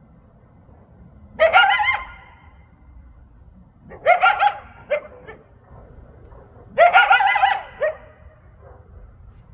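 Coyote yips and howls: three short bouts of high, wavering calls, each under a second long and a couple of seconds apart.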